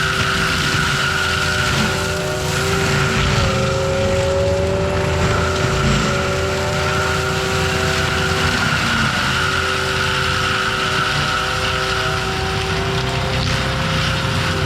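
ASV RT-120F compact track loader running a forestry mulcher: a steady diesel engine note with a sustained whine from the spinning mulcher drum. The pitch shifts briefly about four seconds in.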